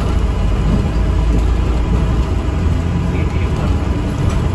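Steady low rumble of an ADL Enviro 400 MMC double-decker bus in motion, heard from inside the passenger cabin.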